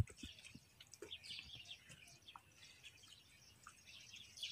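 Birds chirping faintly, with many short, high, downward-sliding notes one after another. A single sharp knock comes right at the start.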